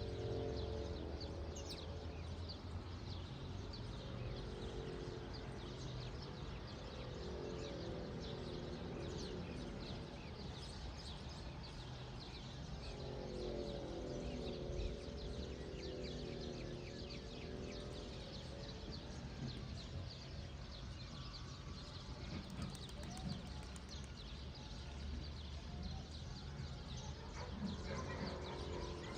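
Many birds chirping in quick short calls throughout, over a steady low rumble. A few lower, wavering calls come and go near the start, in the middle and near the end.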